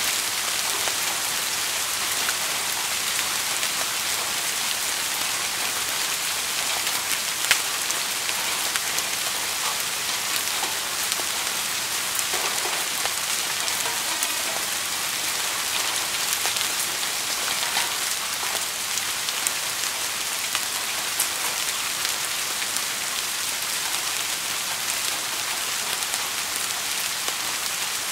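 Steady rain falling: an even, dense patter with sharper single drops ticking through it, one louder drop about seven and a half seconds in.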